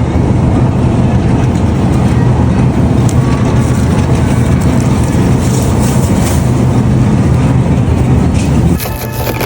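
Car driving: a steady, loud rumble of road and engine noise that cuts off suddenly near the end.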